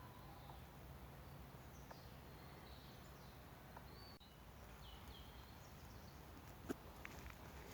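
Quiet woodland ambience: faint, scattered bird chirps over a low steady hum, with one sharp click a little before the end.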